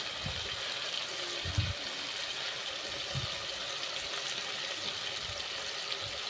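A pot of tomato-and-onion sauce sizzling with a steady hiss, with a few soft low thuds along the way.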